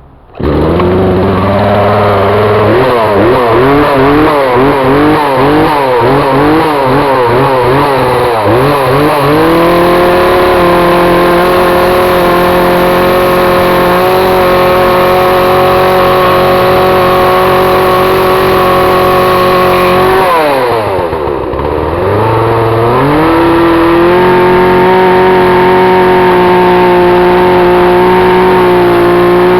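Chainsaw engine starts abruptly and runs loud: the revs waver up and down unevenly for the first several seconds, then hold high and steady as it cuts into a trident maple trunk. About two-thirds through, the revs sag briefly and climb back to full throttle.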